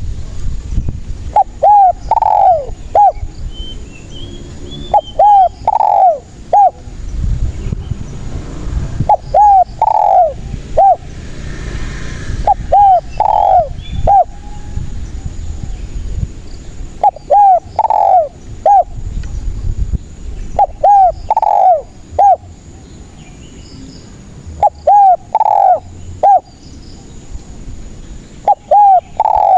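Spotted dove cooing: a phrase of three coos, the middle one loudest with a falling pitch, repeated steadily about every four seconds.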